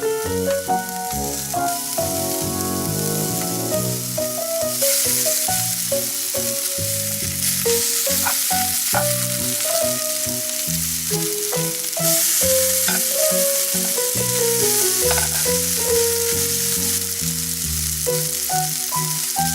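Pad thai frying and sizzling in a hot pan as it is stirred, the sizzle getting louder about five seconds in and again about twelve seconds in. Background music with a melody and bass plays over it.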